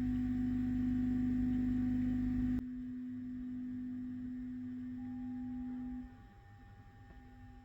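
A steady humming tone over a low hum. It drops sharply in level about two and a half seconds in, and the tone stops about six seconds in.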